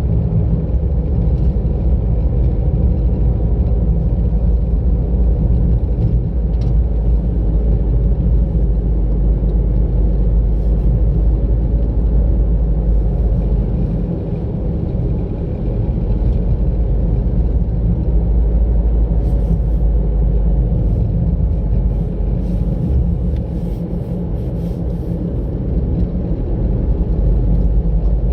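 A car driving along a road: a steady low rumble of engine and tyres, easing a little twice, with faint light clicks about two-thirds of the way through.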